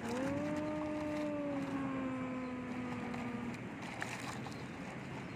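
A grader's motor starts up with a quickly rising hum that holds for about three and a half seconds, then fades, over a steady background of running-machine noise.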